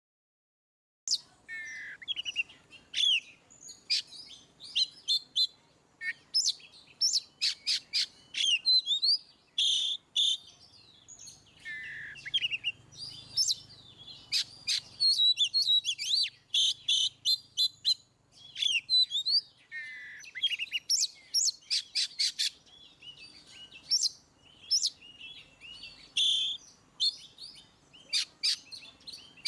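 Oriental magpie-robin (kacer) singing a loud, full, varied song: rapid runs of sharp chirps mixed with sweeping slurred whistles, starting about a second in.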